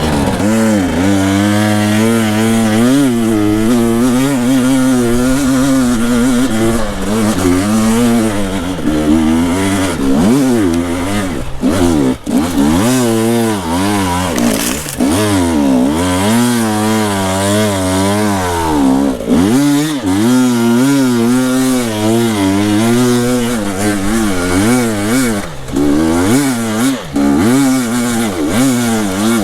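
Two-stroke enduro dirt bike engine revving up and down without a break as the throttle is worked over rough trail. The pitch rises and falls every second or two, with a few brief dips around the middle.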